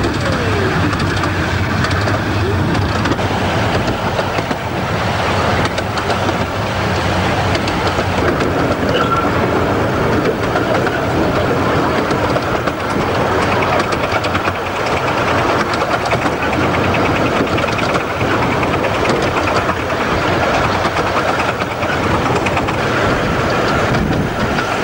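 A Romney, Hythe and Dymchurch Railway 15-inch gauge miniature train running, heard from aboard a carriage: a steady, loud running noise of wheels on track and rattling coaches.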